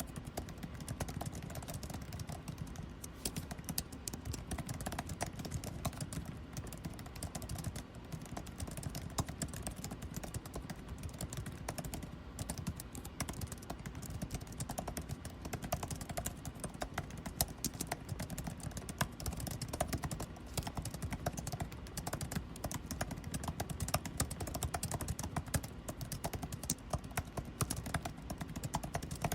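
Typing on a computer keyboard: quick, irregular keystrokes that go on without pause, over the steady low hum of air conditioning.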